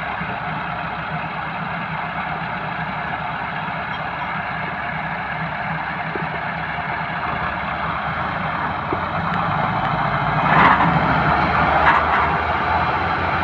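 Massey Ferguson 375 tractor's diesel engine running steadily. It grows louder toward the end, with two short, louder surges.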